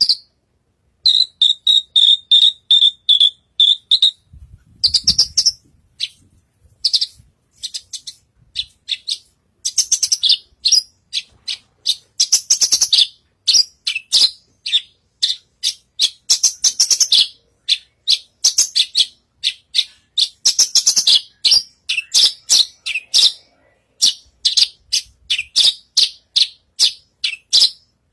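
Javan bush lark singing a fast, varied song of sharp high chirps and short trills, opening with a run of evenly repeated notes, about four a second.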